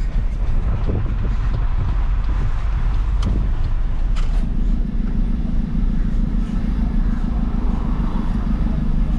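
Isuzu FRR90 truck's diesel engine running under way, a steady low drone. About four and a half seconds in the engine note changes to a firmer, steadier hum. A few light clicks sound around the third and fourth seconds.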